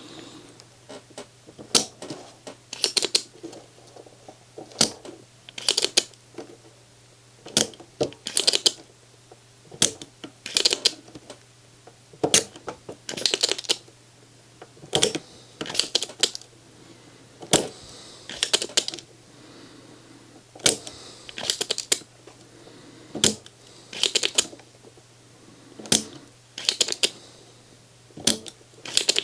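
Irregular sharp clicks and short rattling taps of metal soldering tools against a circuit board and IC pins during desoldering, coming every second or so, over a faint steady low hum.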